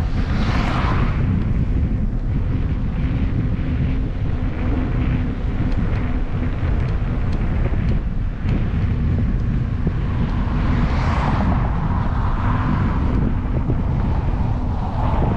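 Wind buffeting the microphone of a camera on a moving bicycle, a steady low rumble throughout. Swells of tyre hiss as vehicles pass come near the start, again about two-thirds of the way through, and at the end.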